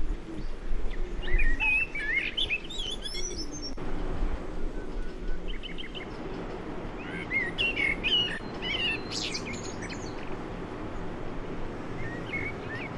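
Several small birds chirping and twittering in quick bursts, two busy spells a few seconds apart and a few calls near the end, over a steady low background rumble.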